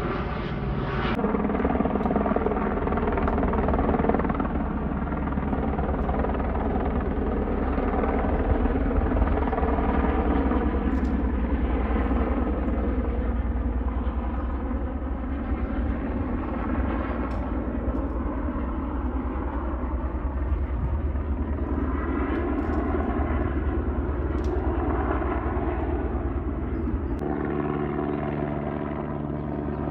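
Airbus H125 helicopter flying over, its single turbine and main rotor making a loud, steady sound. Near the end the tone changes as the low throb drops away.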